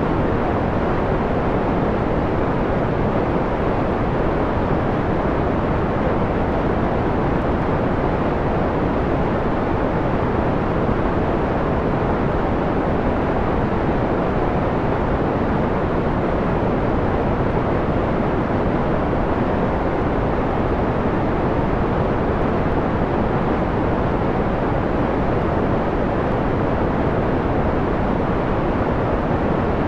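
Steady low, muffled noise, white noise filtered down to a mellow, bass-heavy quality with the highs rolled off above a few kilohertz.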